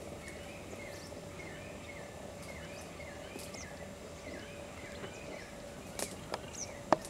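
Outdoor ambience in grassland: a bird repeating a short chirping call about twice a second over a steady faint hum, with a few sharp clicks near the end, the loudest just before it ends.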